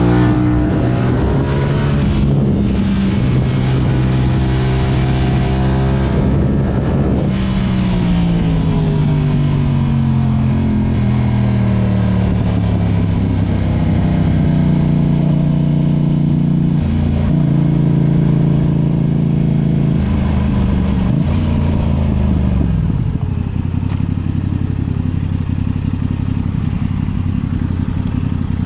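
Yamaha YZF-R6 inline-four engine through an Akrapovič exhaust under riding: the revs rise and fall with the throttle and gear changes, with long drops in pitch as it slows, settling to a lower steady note before rising again near the end.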